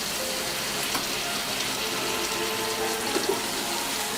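Water pouring into a hot pan of spiced chicken, a steady hiss.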